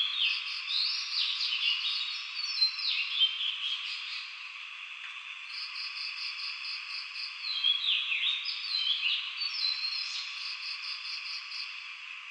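Outdoor wildlife chorus: a steady background chorus, with repeated calls sliding down in pitch and fast pulsed trills of about six or seven pulses a second, mostly in the middle and again near the end.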